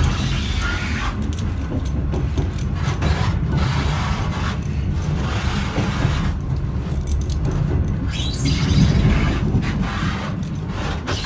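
Passenger train carriage in motion heard from on board: a steady low rumble of wheels on rails, with irregular rattling and scraping over it.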